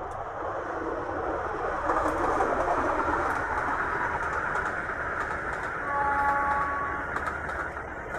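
Passenger train passing close by, a continuous rumble of the coaches on the track that grows louder about two seconds in, with scattered clicks. A horn sounds once, for about a second, near the end.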